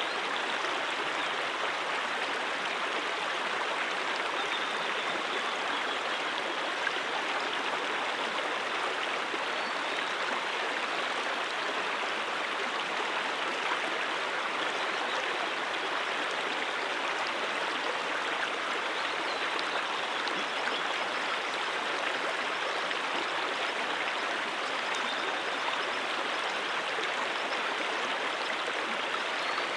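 Small stream running over rocks: a steady, even rush of water with a fine splashing texture.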